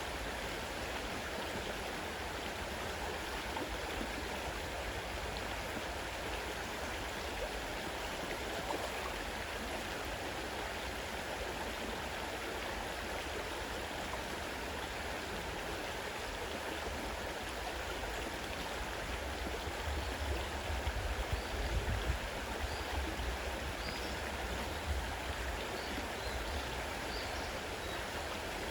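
Fast-flowing river water rushing steadily. A brief low rumble comes about twenty seconds in, and a few faint high chirps near the end.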